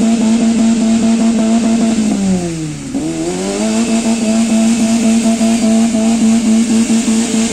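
Maruti Gypsy's petrol engine held at high revs while the 4x4 churns through mud. The note sags about two seconds in, climbs back up a second later, then holds steady.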